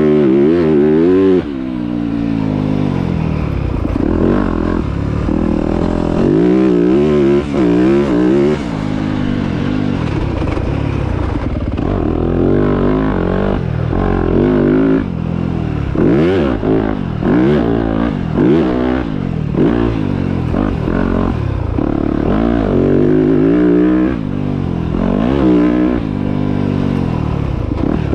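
Motocross dirt bike engines revving, the pitch rising and dropping over and over as the bikes accelerate and back off.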